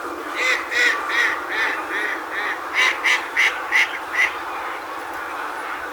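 A duck quacking a rapid series of about eleven quacks, roughly three a second, that stops after about four seconds. Under it, water rushes steadily through a pond sluice.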